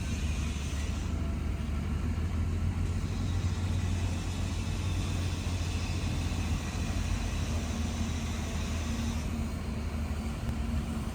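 Heavy bulldozer diesel engine running steadily, a continuous low rumble without breaks.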